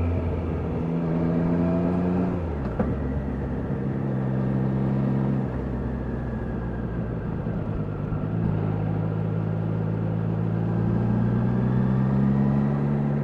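Triumph Daytona 660's inline three-cylinder engine running under way. Its pitch drops sharply with a click about two and a half seconds in, holds steady, then climbs slowly over the last few seconds as the bike accelerates.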